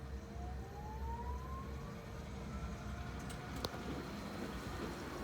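The converted truck's electric drive motor spinning up on its first start, its whine rising steadily in pitch, levelling off, then starting to fall near the end. A single sharp click comes about three and a half seconds in.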